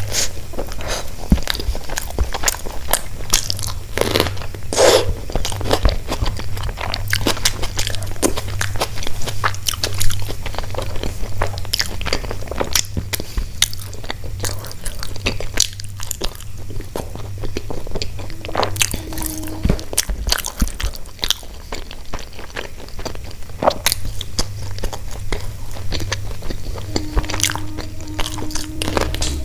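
Close-miked eating: chewing and crunching mouthfuls of paratha and pickled onion, with many small wet mouth clicks. A steady low hum runs underneath.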